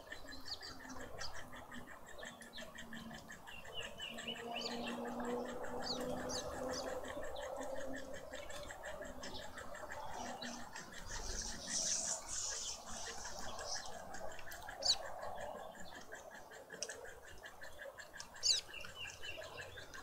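Small birds giving short, high chirps and quick falling whistles, scattered through. Underneath runs a steady, fast pulsing trill, with a faint low hum in the first half.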